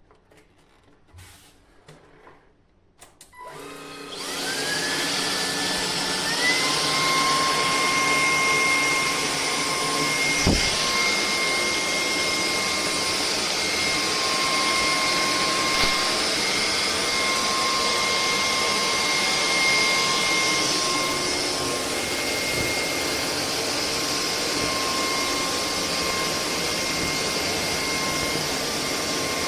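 Cordless stick vacuum cleaner switched on after a few faint handling clicks. Its motor spins up with a rising whine, then runs steadily with a high whine over a strong rush of air. There is a single knock about ten seconds in.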